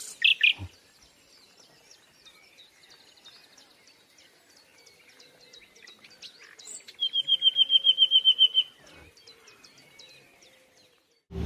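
Songbird calls: a few sharp chirps at the start, then about a second in, quiet faint ticking. Around the middle comes a loud, rapid trill of about a dozen evenly repeated high notes.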